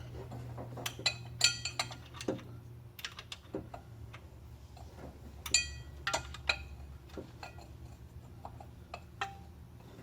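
Metal hand tools clinking and tapping, a socket and breaker bar being handled, in irregular clinks. Several ring briefly, the loudest about one and a half and five and a half seconds in. A low steady hum runs underneath.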